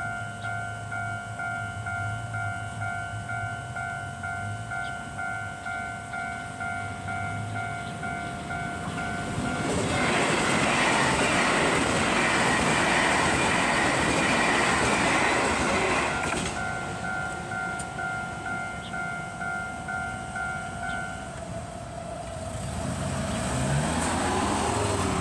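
Level-crossing warning bell ringing in a steady, fast repeat. About ten seconds in, an electric commuter train passes, its wheels and running noise loud for about six seconds and masking the bell. The bell then sounds again until it stops a few seconds before the end, and a road vehicle's engine rises in pitch near the end as traffic moves off.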